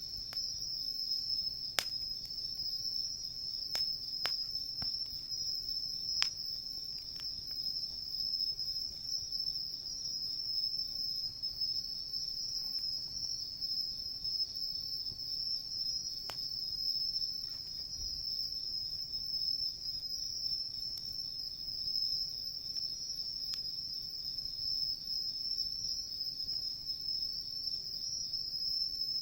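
A steady, high-pitched chorus of crickets trilling without a break. Over it a wood fire crackles, with a few sharp pops: several in the first six seconds and one about sixteen seconds in.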